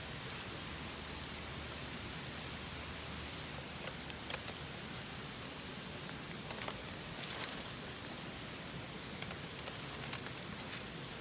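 Open wood campfire crackling: a steady hiss with scattered sharp pops and snaps.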